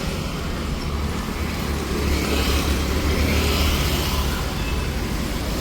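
City street traffic: a steady rumble of vehicle engines and tyres, a little louder for a couple of seconds in the middle.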